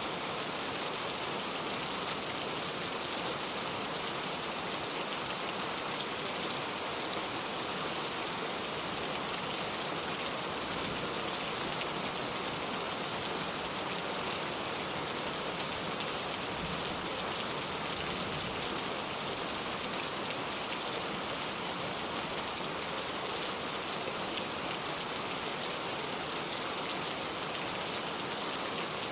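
Steady heavy rain pouring down, an even hiss with a patter of drops.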